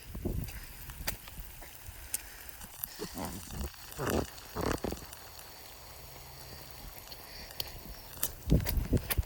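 Footsteps outdoors with scattered crackling clicks, and heavier, quicker steps starting near the end.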